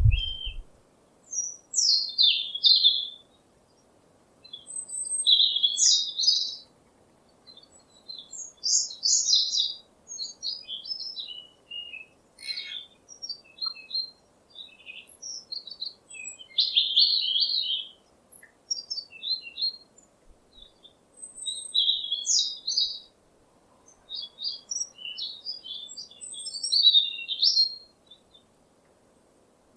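Songbirds singing: short bursts of high chirps and trills, a new phrase every second or two with brief pauses between.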